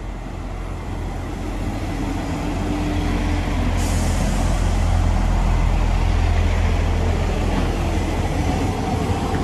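Class 158 diesel multiple unit approaching and passing close by on the platform line. Its engine drone grows louder over the first few seconds, and a sudden rush of wheel and air noise comes in about four seconds in as the train draws level and carries on past.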